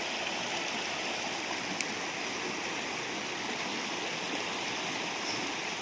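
River water flowing steadily, with one short click about two seconds in.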